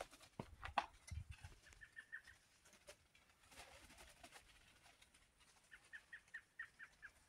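Faint bird calls from the trees: a quick series of short, high chirps about five a second, once about two seconds in and again in a longer run near the end. A few sharp clicks come in the first second.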